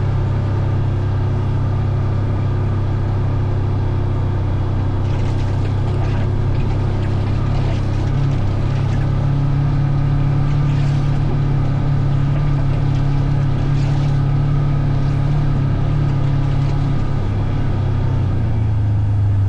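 Engine of the vehicle being ridden, running steadily under way; its pitch rises a little about eight seconds in and eases back down near the end.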